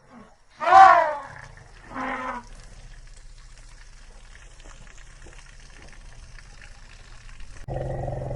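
An animal's call: a loud descending cry about a second in, then a shorter, fainter one about two seconds in, followed by faint background hiss. A steady tone starts near the end.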